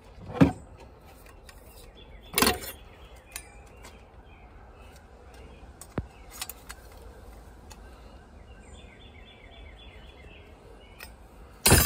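Quiet outdoor background with a few short knocks and bumps from handling, and a small bird chirping in a quick run of notes about nine seconds in; a louder rustle of handling noise comes at the very end.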